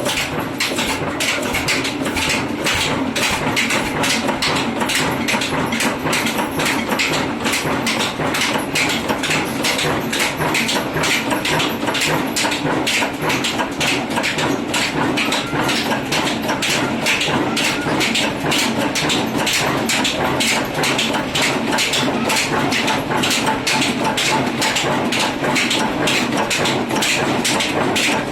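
Ruston 20 HP stationary diesel oil engine running steadily, with an even, sharp knock of its firing several times a second.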